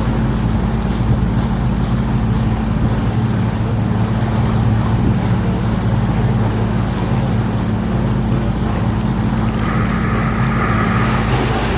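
Canal tour boat's engine running steadily with a low hum, over an even rush of wind and water.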